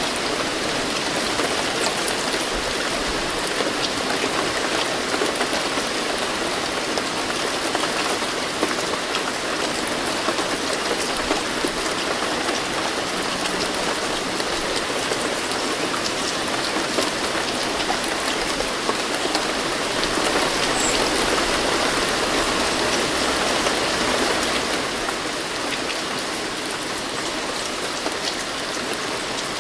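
Steady rain falling on a surface, an even hiss with many small drop ticks, swelling slightly a little past two-thirds of the way through.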